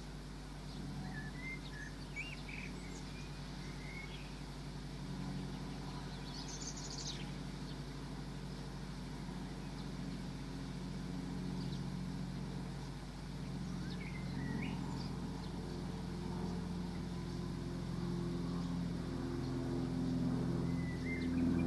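A few small birds chirp now and then, short high calls, over a steady low droning hum that grows louder toward the end.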